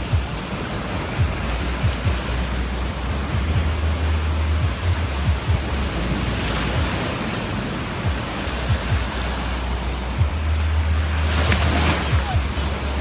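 Sea waves washing onto a beach, a steady rushing surge that swells twice, with wind buffeting the microphone in low rumbling gusts.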